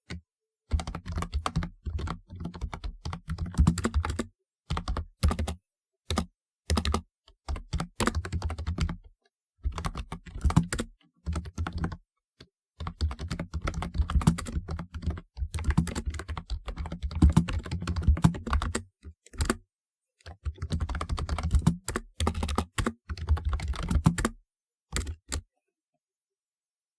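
Typewriter-style mechanical keyboard being typed on: fast runs of clacking keystrokes in bursts of a few seconds, broken by short pauses, stopping a couple of seconds before the end.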